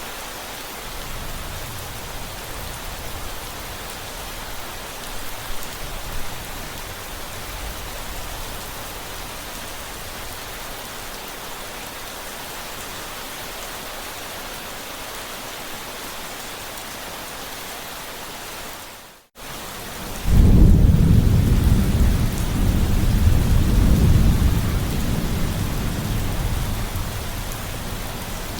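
Steady rain hiss. About two-thirds of the way in, the sound cuts out for a moment, then a long, loud, low rolling rumble of thunder starts over the rain and slowly dies away.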